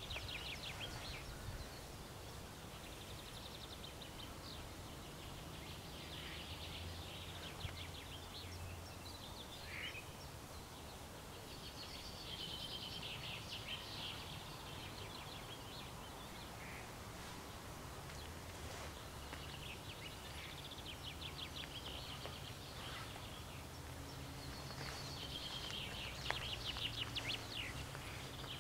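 Songbirds singing short, fast-trilled phrases every few seconds over a faint, steady low hum.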